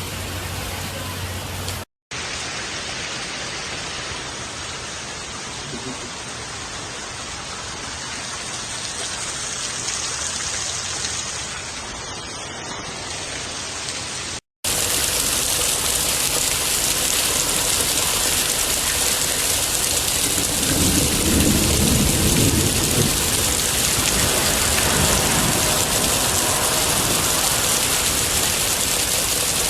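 Heavy rain pouring down in a steady hiss. It cuts out briefly twice and is louder after the second break, with a low rumble swelling about two-thirds of the way through.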